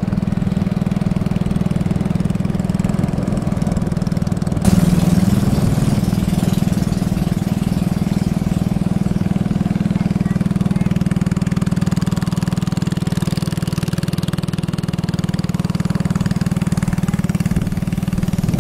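Engine of a motorized canoe running steadily under way. About five seconds in it gets louder and briefly rises in pitch, then holds steady again.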